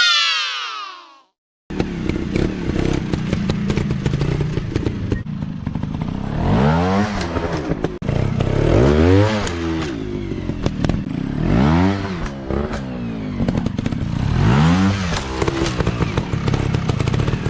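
Off-road dirt bike engines being revved hard over and over, the pitch climbing and dropping about every two and a half seconds, with clattering knocks. A brief falling engine note opens the clip and is cut off abruptly, followed by a moment of silence.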